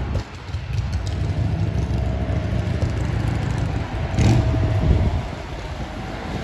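Low, steady rumble of a distant aircraft engine, with wind buffeting the microphone and a brief louder burst about four seconds in.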